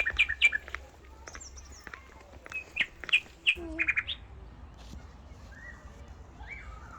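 Birds chirping: quick runs of short, sharp, high chirps in the first second and again from about two and a half to four seconds in, with a few softer gliding calls after.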